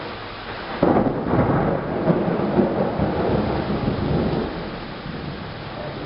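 A thunderclap breaks out suddenly about a second in and rumbles on for about three and a half seconds before fading, over a steady hiss of rain.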